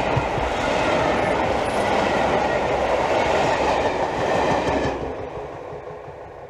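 Passenger coaches of a locomotive-hauled train passing close by at speed, their wheels and bogies running on the track. The sound drops sharply about five seconds in as the last coach goes by, then fades away.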